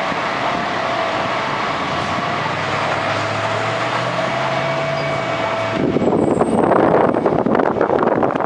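An engine running steadily with a faint high whine over it; from about six seconds in, louder wind buffeting on the microphone covers it.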